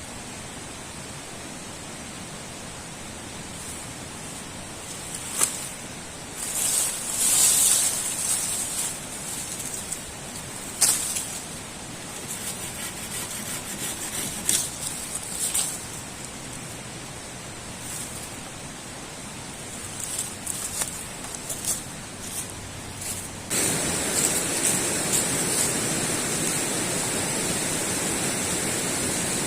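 Steady outdoor rushing noise with scattered short crunches and rustles; about 23 seconds in the rushing suddenly gets louder and fuller.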